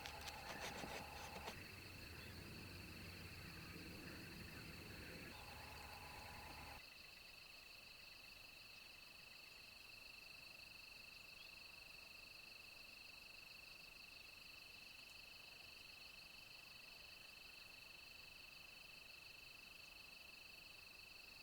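Crickets chirping in a steady, faint, high-pitched chorus. For the first seven seconds there are also faint clicks and a low hum, which cut off suddenly.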